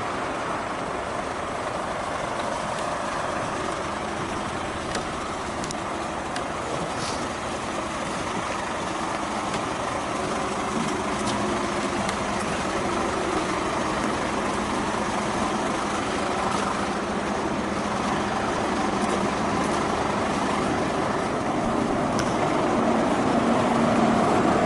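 Honda CB750K air-cooled inline-four motorcycle engine running steadily while being ridden, gradually getting louder toward the end.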